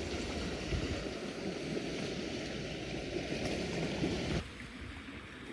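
Flowing water, a steady rushing noise that drops abruptly to a quieter outdoor ambience about four and a half seconds in.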